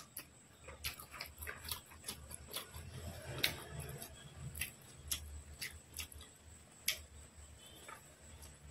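Close-miked chewing of a mouthful of fried rice: irregular wet mouth clicks and lip smacks, the sharpest about three and a half seconds in and again near seven seconds.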